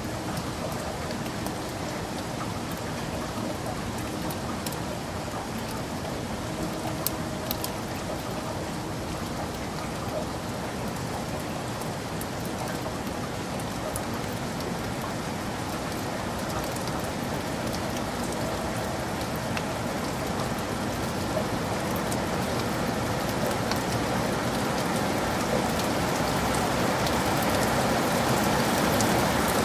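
Heavy rain falling steadily, an even hiss with scattered sharper drop hits about seven seconds in, slowly growing louder toward the end.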